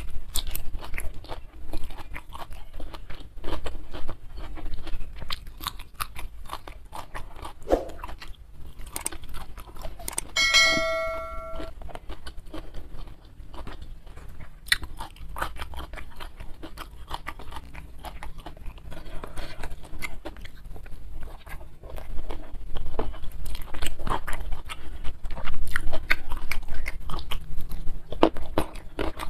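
Close-miked chewing and crunching of hand-fed mouthfuls of rice with leunca berries, prawns and chili, with wet mouth clicks. About ten seconds in, a short ringing tone like a small chime sounds for about a second.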